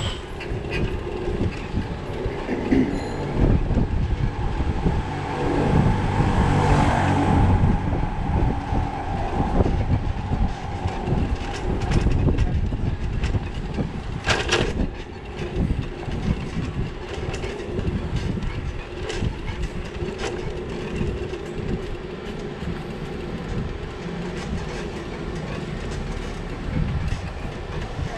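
Bicycle rolling over a rough street, with a constant low rumble and rattle of knocks from the bike and camera mount. A louder rushing sound swells and fades about six to eight seconds in, and there is a sharp clank about halfway through.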